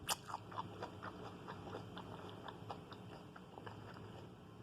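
Quiet chewing with scattered small mouth clicks, one sharper click just after the start.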